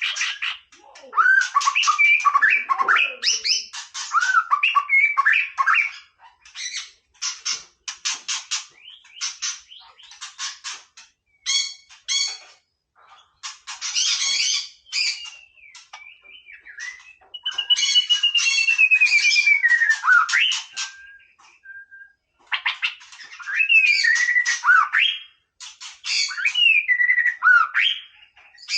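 White-rumped shama singing: runs of rapid, harsh chattering notes mixed with clear whistled phrases that glide up and down, broken by short pauses.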